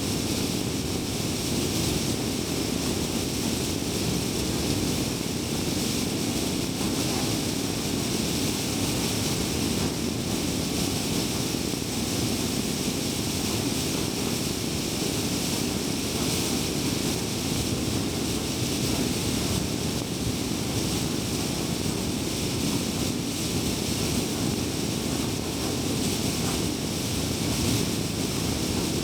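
Steady road and tyre noise of a car cruising at highway speed, with wind rush and no change in pace.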